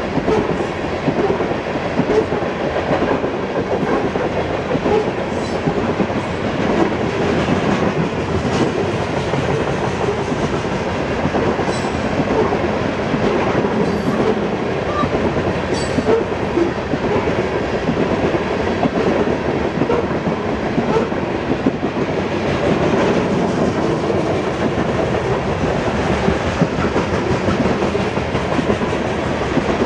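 Loaded coal cars of a BNSF coal train rolling steadily past: the continuous noise of steel wheels running on the rails, with rattling of the cars.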